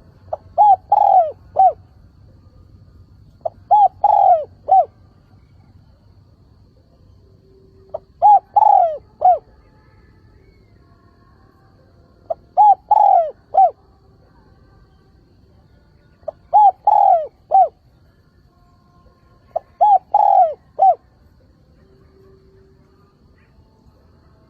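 Spotted dove cooing its calling song, the kind used as a lure to draw in wild doves: six phrases of three or four short, clear coos, one phrase every three to four seconds.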